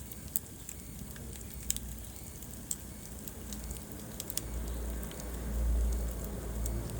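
Wood fire crackling in a fireplace: sharp, separate pops about once a second over a steady hiss, with a low rumble swelling in the second half.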